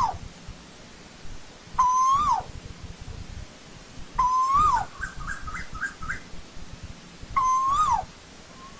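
Asian koel calling: loud two-part notes that rise and then drop sharply, repeated about every two and a half seconds. A quick run of about six short, higher notes comes about midway.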